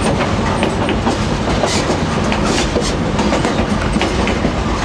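White Pass & Yukon Route narrow-gauge passenger train rolling along the track, heard from on board: a steady rumble with wheels clacking over rail joints.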